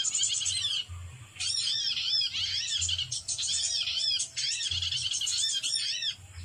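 Small birds chirping fast and continuously: a dense run of short, high, arched notes, broken briefly about a second in and again near the end.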